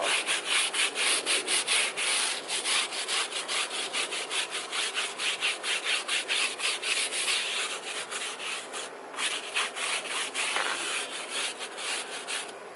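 Stiff tire brush scrubbing a truck tire wet with tire cleaner, in brisk back-and-forth strokes of about three a second, pausing briefly about nine seconds in.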